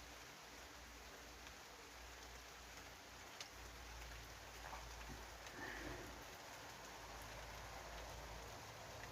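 Faint, steady light rain falling, with a soft tick about three and a half seconds in.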